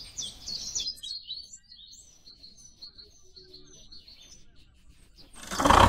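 Birds chirping in short, high calls. Near the end, a loud, noisy sound rises sharply.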